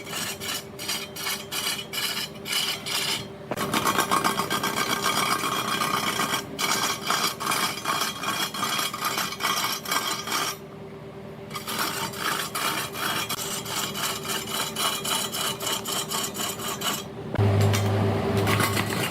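A turning tool cutting into a redwood log spinning on a wood lathe: a rapid, chattering scrape over the steady hum of the machine. Near the end a deeper, louder hum comes in.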